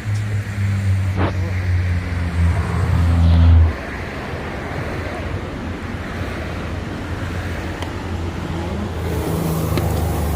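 A motor vehicle's engine running, a low steady drone that drops sharply about four seconds in and swells again near the end.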